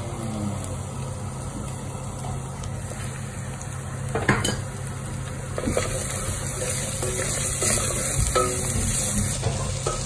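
Spice paste frying in hot oil in a stainless steel pot as it is stirred and scraped with a wooden spoon, with a few sharp knocks of the spoon against the pot, over a steady low hum. The sizzle gets brighter about halfway through. This is the sautéing (tumis) stage of the opor spice base.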